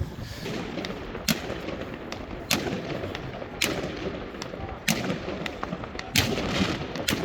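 New Year's fireworks and firecrackers going off, sharp bangs roughly once a second, each with a short echoing tail.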